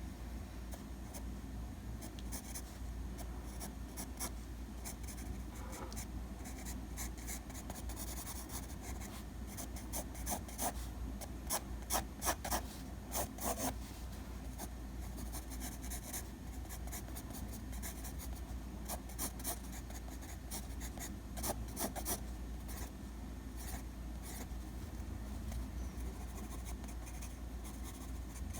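Drawing strokes on paper: many short, scratchy strokes, coming in denser runs about a third of the way in and again later, over a steady low hum.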